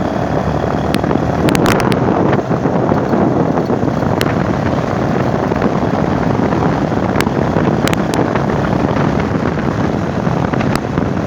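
Motorcycle riding along a road: a steady rush of engine, road and wind noise on the microphone, with a few short sharp knocks scattered through it.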